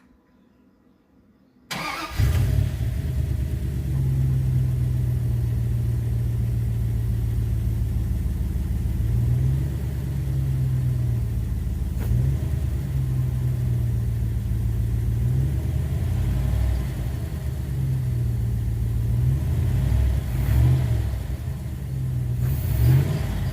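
A 2001 Dodge Ram 1500's 5.2 Magnum V8 fires up about two seconds in, on its first start after new cylinder heads, and then idles. The engine is revved up briefly and dropped back to idle several times.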